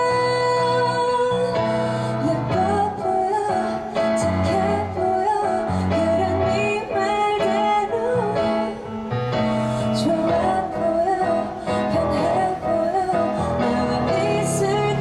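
Music: a woman singing a melody over instrumental accompaniment.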